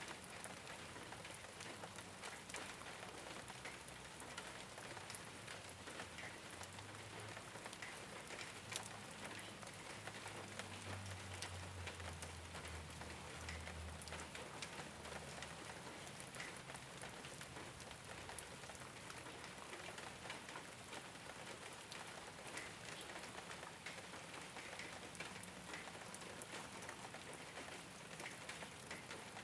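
Steady rain falling on a rooftop, with many individual drops ticking through a constant hiss. A low rumble comes in for several seconds midway.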